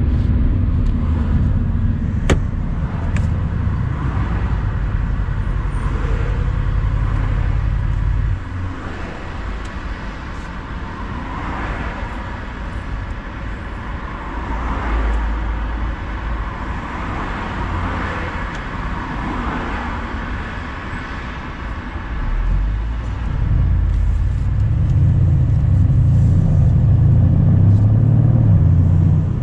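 Mercedes-AMG C63 cabriolet's twin-turbo 4.0-litre V8 driving on a country road with the roof open: the engine pulls loudly for about eight seconds, then drops off suddenly to a quieter stretch of wind and tyre noise, and from about two-thirds of the way through it pulls loudly again.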